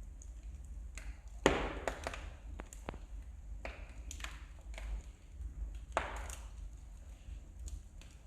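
Wood fire crackling in a fireplace: irregular sharp pops and snaps from the burning logs, the loudest about one and a half seconds in and another strong one about six seconds in, over a low steady hum.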